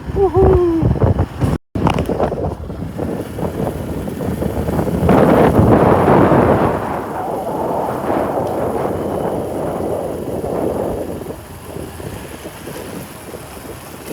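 Wind buffeting the microphone over the running noise of a vehicle, swelling about five to seven seconds in and easing near the end.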